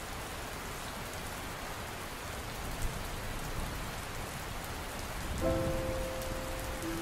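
Steady rain falling, a continuous even hiss. About five seconds in, soft held notes of acoustic music start up over it.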